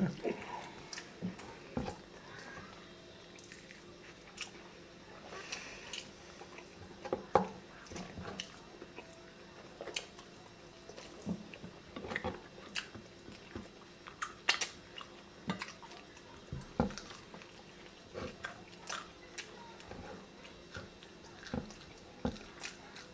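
Close-miked chewing and mouth smacks of people eating rabbit adobo and rice by hand, with scattered wet clicks and an occasional crunch. The smacks come irregularly, one every second or so, with a few louder ones in between.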